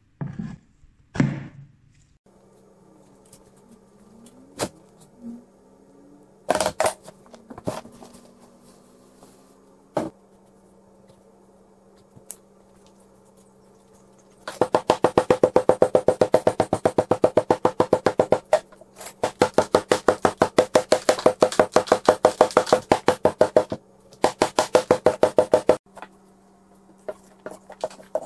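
Molding sand being rammed down into a wooden casting flask: a fast, even run of knocks, about five a second, in three bursts with short pauses. A few separate knocks come first, and faint music plays underneath.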